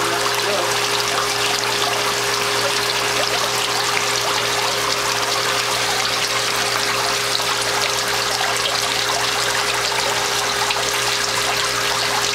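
Water falling like rain from a cooling tower's fill into its basin, a steady splashing rush, with a steady hum underneath.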